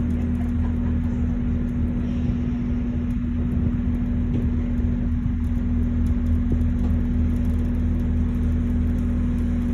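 Tour boat's engine running steadily: an even, low hum with a steady tone above it.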